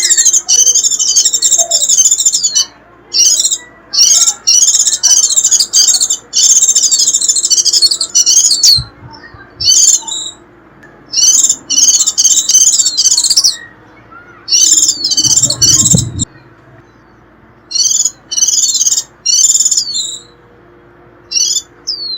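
White-eye (vành khuyên) giving its fast, high-pitched 'rít' twittering in bursts of one to two seconds separated by short pauses, the call bird keepers play to draw in wild white-eyes. A brief low rumble comes about fifteen seconds in.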